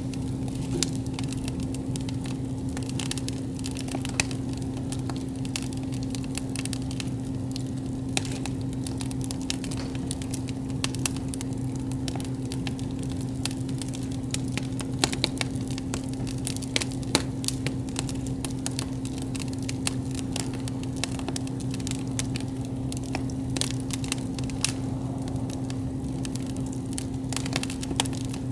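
Wood campfire crackling, with sharp irregular snaps and pops of burning wood over a steady low hum.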